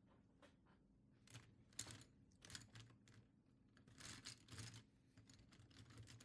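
Pen drawing on paper: a series of faint, short scratchy strokes, bunched more closely about four seconds in.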